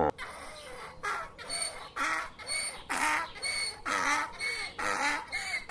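A bird calling over and over, about two short calls a second, alternating between clear high notes and harsher, rougher calls.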